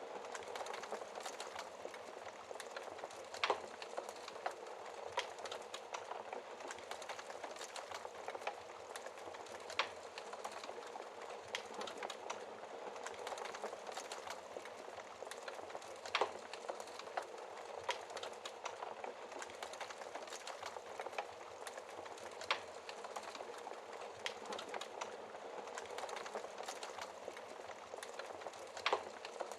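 Wood fire burning behind a glass fireplace door, a steady crackle with frequent small snaps and an occasional sharper pop every several seconds.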